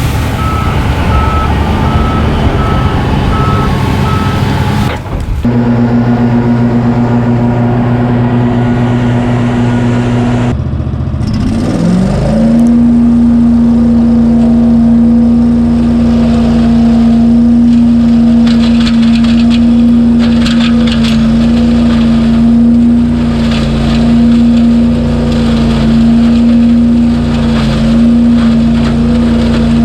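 Small gasoline engine of a leaf vacuum debris loader running steadily at full throttle, after revving up to speed about twelve seconds in. A series of evenly spaced beeps sounds over the engine in the first few seconds.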